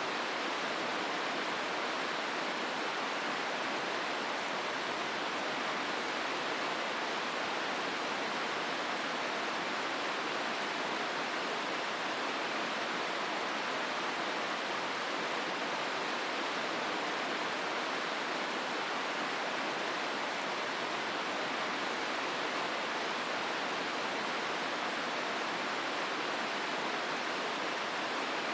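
The Hozu River's water rushing steadily through the gorge: an even, unbroken hiss of flowing water with no separate splashes or changes.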